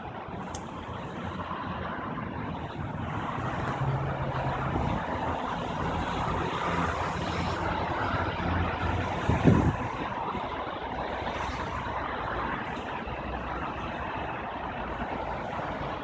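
A large vehicle engine running steadily, with a short click about half a second in and a louder thump about nine and a half seconds in.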